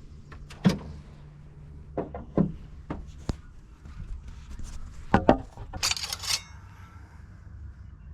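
A string of sharp knocks and clicks over a low steady hum, with a short rattling jangle about six seconds in.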